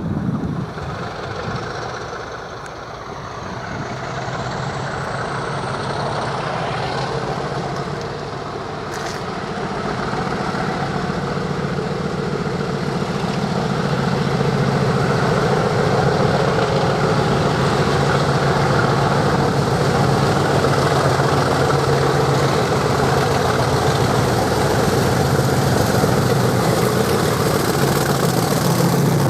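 Heavy diesel locomotive engines running and growing louder as the train draws near, with a high whine rising in pitch through the first ten seconds or so.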